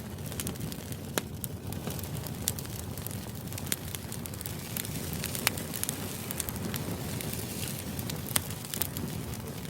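Steady low background noise with scattered sharp crackles and clicks, roughly one every second.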